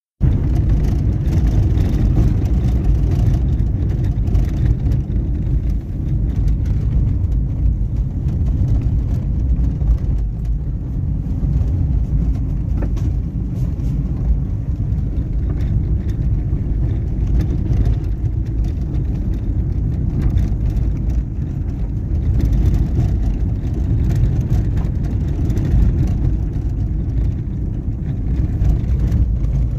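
Steady, loud low rumble of noise, strongest in the bass and wavering slightly in level, with no clear tone or distinct events.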